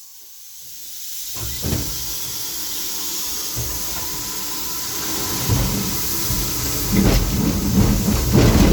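Steam hissing in the cab of a narrow-gauge steam locomotive, swelling over the first two seconds. A low rumble with irregular knocking builds and grows louder over the last few seconds as the locomotive runs.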